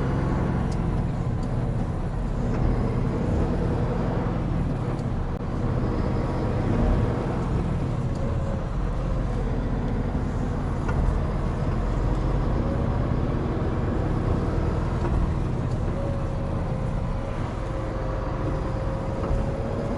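Hino Profia heavy truck under way on the expressway: a steady low diesel drone mixed with road and tyre noise. A faint whine rises slowly in pitch over the last few seconds.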